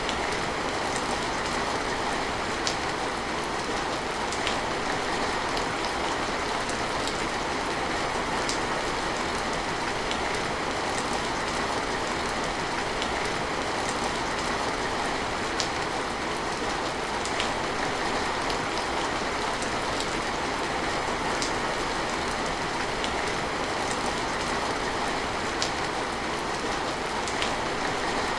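Steady rain falling: an even, unbroken hiss with scattered sharper drops ticking now and then.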